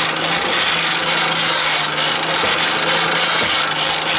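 Hand-cranked geared forge blower being spun, a steady whir of rushing air over a low hum. The gears and fan paddles are still noisy after the repair, and the gearboxes run dry of oil.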